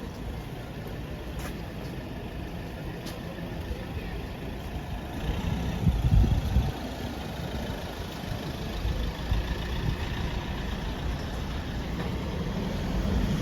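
Street traffic: a steady rumble of vehicle engines, with one vehicle passing close about six seconds in.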